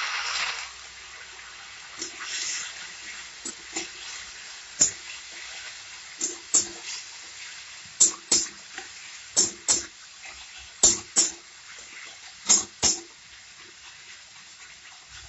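Water splashed into hot masala in a wok sizzles loudly for the first moment, then settles to a low, steady sizzle. A spatula scrapes and knocks against the wok, often in quick pairs about every second and a half, as the onion-tomato masala is stirred and sautéed.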